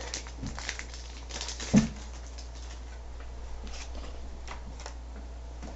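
Light rustling and small taps from a Pokémon booster pack and its cards being handled and sorted, with one louder knock about two seconds in. A low steady hum lies underneath.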